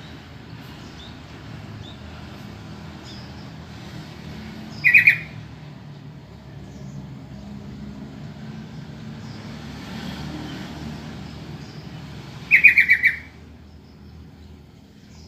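Yellow-vented bulbul giving two short bursts of rapid, loud call notes: a brief one about five seconds in and a longer run of about five notes near the end, over a steady low rumble.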